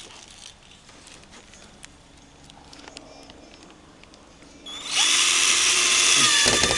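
Power drill starting up about five seconds in and running at full speed, driving a screw. Before it, only faint handling clicks.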